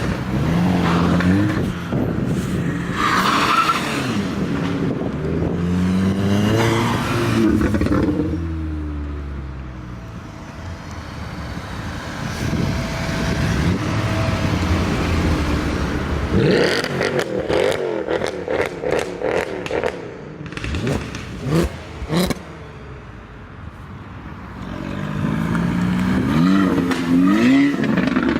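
Volkswagen-group hot hatches (Golf GTI/R type) accelerating hard, engine pitch climbing and dropping in steps as they shift through several gears. In the middle an engine is revved with a run of sharp exhaust cracks. Near the end another car pulls away hard through the gears.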